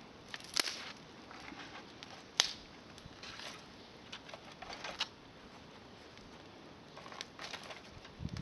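Wood campfire crackling, with scattered sharp pops and clicks at irregular intervals, the loudest about two and a half seconds in.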